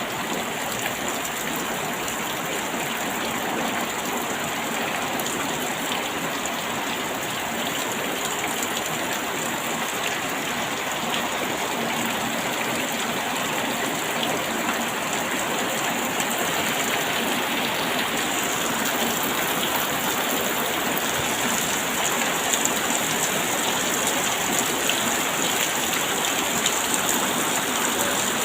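Steady rain falling, a dense even hiss with scattered sharper drop ticks, growing a little heavier from about two-thirds of the way through.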